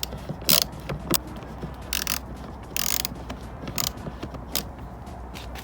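Hand ratchet wrench clicking in short bursts, about one stroke a second, as a bolt is worked loose in a car's engine bay; it gives only a little turn with each stroke.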